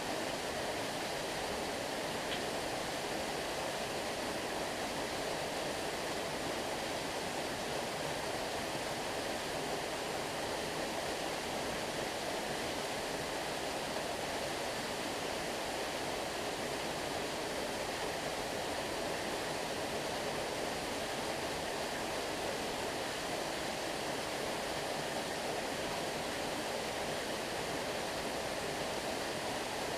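Stream water flowing steadily, a constant even rush with no change in level.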